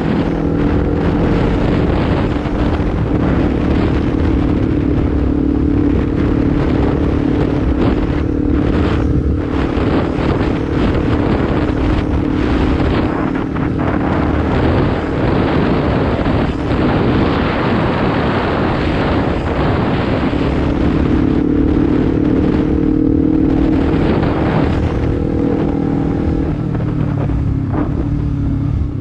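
Honda CBR250RR motorcycle engine running through a Proliner aftermarket slip-on exhaust while being ridden at a fairly steady engine speed, with wind rushing over the microphone.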